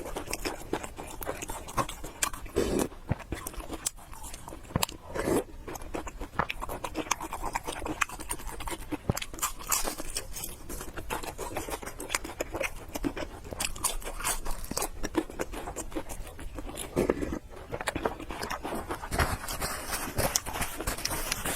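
Close-miked eating: a person chewing and biting food, with a steady run of small wet clicks and crunches.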